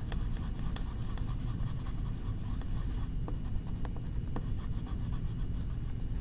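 Colouring on paper: quick back-and-forth scratchy strokes filling in an area, busiest in the first three seconds and lighter after, with a few small ticks.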